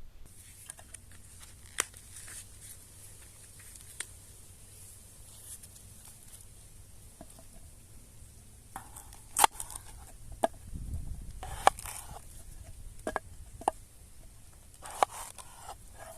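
Scattered clicks, snaps and short rustles of hands handling things outdoors, loudest about nine and a half and twelve seconds in, over a faint steady high hiss.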